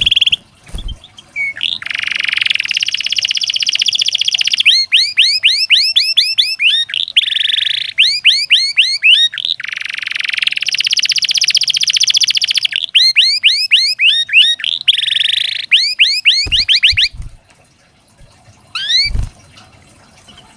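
Domestic canary singing: long, rapid rolls alternating with quick series of rising chirps, stopping about three-quarters of the way in, with one short rising note a little later and a couple of low thumps near the end.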